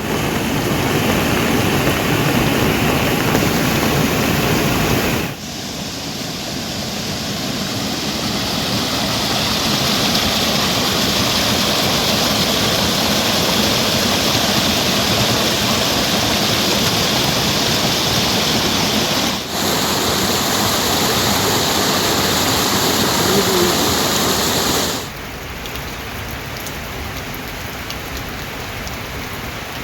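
Heavy rain falling, a dense steady hiss of water. Its level changes suddenly about five seconds in, briefly dips near twenty seconds, and drops about twenty-five seconds in.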